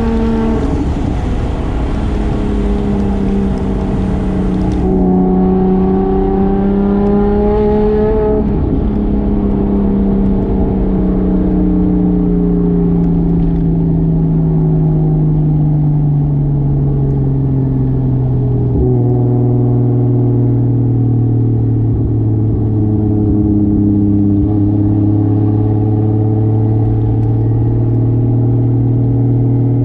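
Single-turbo 2JZ straight-six in a 1995 Toyota Soarer running on the road. Its note holds fairly steady at first, then drops slowly in pitch over about ten seconds as the revs fall, and settles into a steady lower drone. A short knock comes about two-thirds of the way through.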